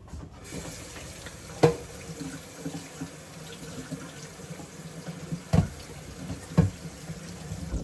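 Kitchen tap running into a sink as food cans are rinsed under it, with three sharp knocks, the loudest sounds, as the cans are handled. The water comes on about half a second in.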